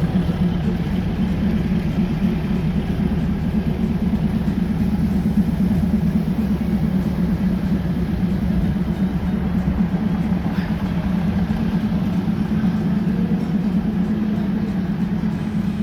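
Diesel passenger train idling at the platform: a steady, unchanging low engine hum.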